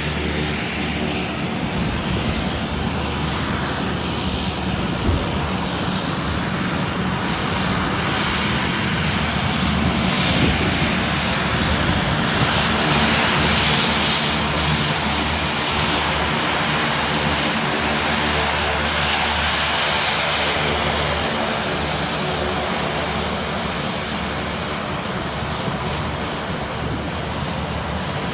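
Propeller airplane engines running steadily: a constant loud drone with several steady engine tones underneath, swelling slightly in the middle.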